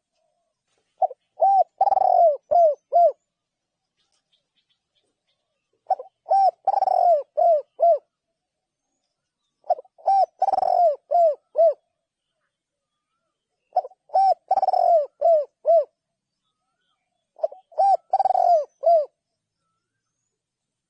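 A spotted dove cooing: five phrases about four seconds apart, each a quick run of several short coos.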